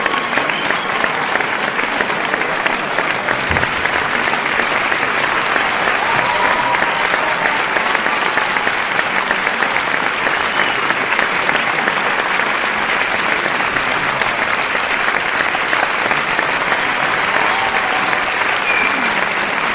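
A large crowd applauding, with continuous, dense clapping that holds steady throughout.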